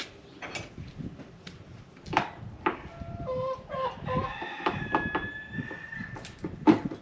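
A rooster crows once, a call of about three seconds starting about three seconds in, with several sharp knocks and clinks of parts being handled around it.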